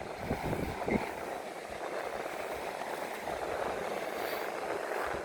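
Steady rushing noise of sea surf and wind on a rocky coast.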